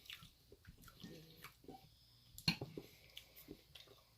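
Faint wet mouth and chewing sounds of someone eating curry, with a sharp click about two and a half seconds in.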